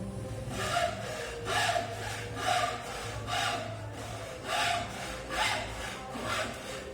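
A hand tool rasping on wood in even strokes, about one a second, over a steady low hum.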